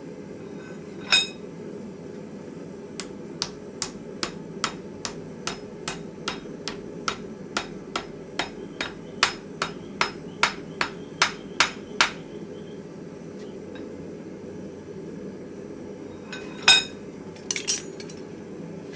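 Hand hammer striking metal in a steady run of about twenty ringing blows, a little over two a second, with a single blow before the run and a few more near the end.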